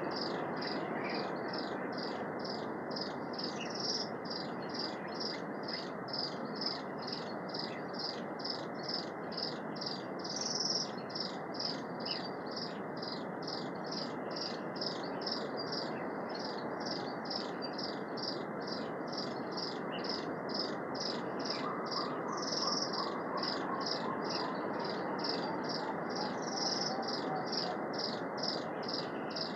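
An insect chirping high and evenly, over and over, over a steady hiss in the forest, with a bird's short descending trill about two-thirds of the way through.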